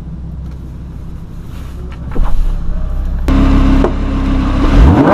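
Lamborghini Huracán's V10 engine running low and steady. It grows louder about two seconds in and again a second later, then gives a quick rising rev near the end.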